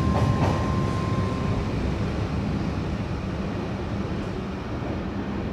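A steady low rumbling noise that slowly fades, with the last held note of music dying away in the first second or so.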